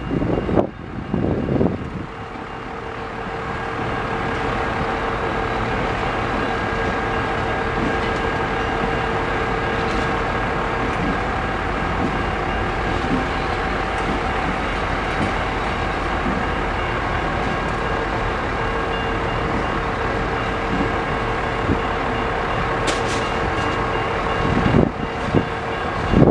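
Freight train of tank cars and gondolas rolling through a grade crossing: a steady rumble of wheels on rail with steady ringing tones over it. Wind gusts hit the microphone near the start and again near the end.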